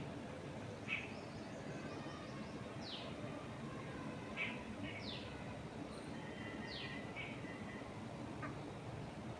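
Birds chirping over a steady rush of wind in trees; several of the calls are quick falling whistles, coming one every second or two, with a few shorter chirps between.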